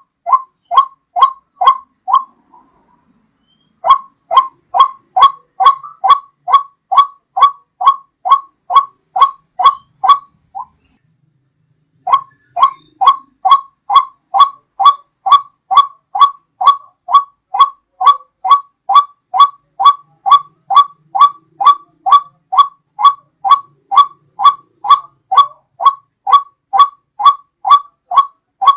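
White-breasted waterhen calling: a loud 'ruak' note repeated about three times a second in long runs, pausing briefly about two seconds in and again about ten seconds in.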